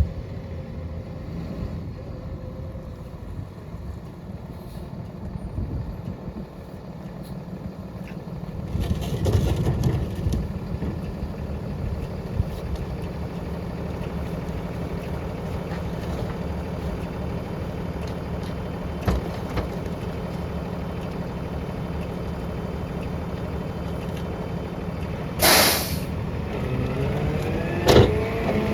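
Rear-loader garbage truck's diesel engine running under load while the packer works, with a short loud air hiss about 25 seconds in and a sharp knock shortly after. The engine speed rises near the end.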